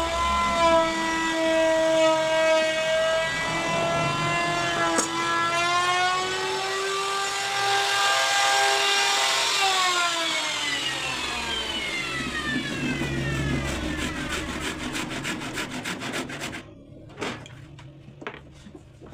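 An electric woodworking machine runs while cutting wood, its whine dipping and recovering in pitch under load. After about ten seconds it is switched off and winds down in a long falling whine, then the sound stops abruptly, followed by a few light knocks near the end.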